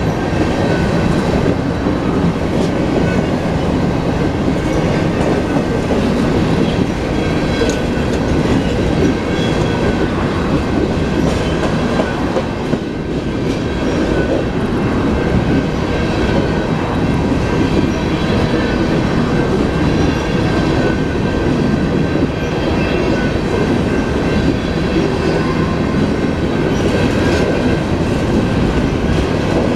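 Union Pacific freight train of hopper cars rolling past at low speed: a steady rumble of the cars with the wheels clacking over the rail joints.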